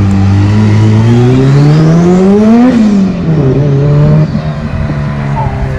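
Car engine revving up steadily for about two and a half seconds, then dropping back and holding a steady idle that gets quieter about four seconds in.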